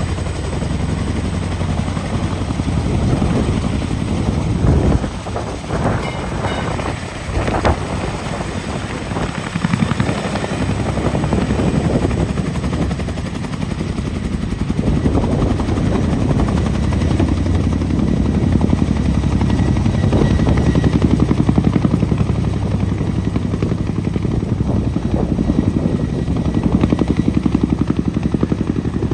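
Boeing CH-47 Chinook tandem-rotor, twin-turbine helicopter running: a rapid, even rotor beat over steady turbine noise, growing somewhat louder in the second half.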